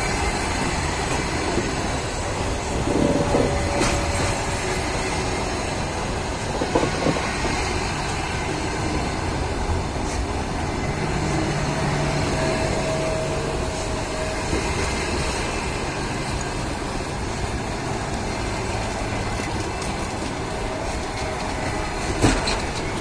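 Passenger train hauled by an EP1 electric locomotive running on the line: a steady rolling rumble, with the wheels clacking over rail joints and a few sharper knocks.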